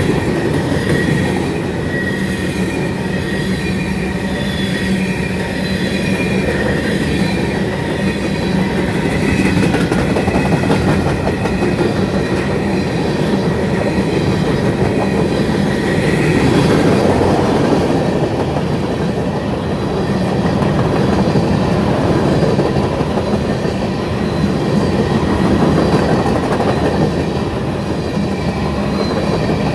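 Freight train's covered hopper cars rolling past close by: a steady rumble of steel wheels on rail with clickety-clack over the joints, and a thin high wheel squeal in the first half.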